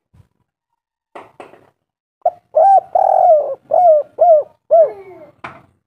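Spotted dove (tekukur) cooing: after a quiet start, a quick run of about six arched coo notes begins a little over two seconds in, one of them held longer than the rest.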